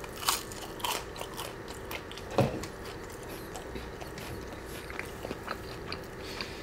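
Close-miked chewing of a mouthful of waffle fries: a few crisp crunches in the first couple of seconds, the loudest about two and a half seconds in, then softer chewing.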